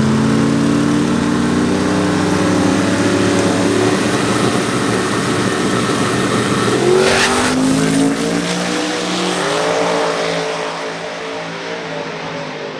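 Drag racing car accelerating hard down the strip, its engine pitch climbing, dipping and climbing again twice as it shifts gears, then fading as it pulls away.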